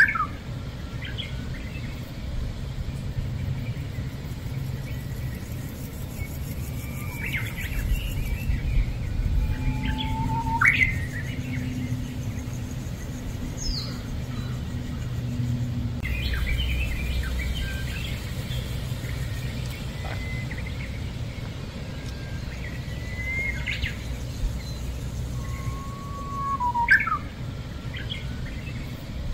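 Birds chirping, with short calls and quick rising sweeps every few seconds, some repeating the same phrase, over a steady low rumble of background noise.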